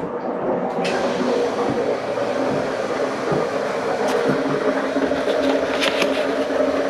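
Water rushing steadily from an open hot-water faucet while the supply lines and the new electric water heater's tank fill. The rush picks up about a second in, with a few brief clicks later on.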